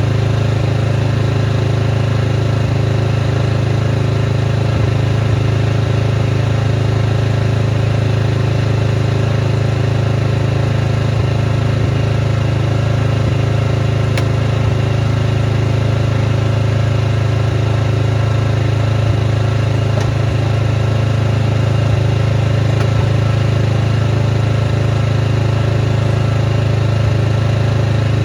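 Snowblower engine running steadily at one constant speed, with no change in pitch or load.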